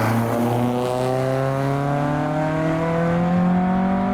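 Car engine accelerating away under load, its pitch rising slowly and steadily.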